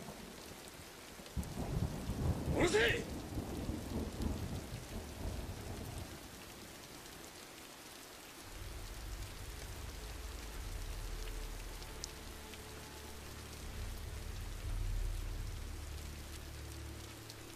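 Heavy rain falling steadily. A thunderclap breaks about a second and a half in, with a sharp crack and a low rumble that dies away over several seconds. From about halfway a low steady drone comes in under the rain.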